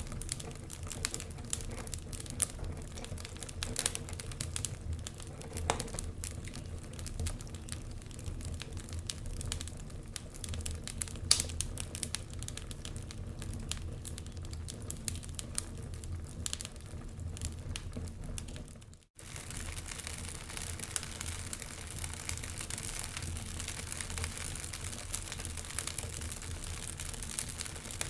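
Wood fire crackling, with irregular sharp pops and snaps over a steady low rumble and one louder pop about eleven seconds in. About two-thirds of the way through, the sound cuts out for a moment, then resumes with more hiss.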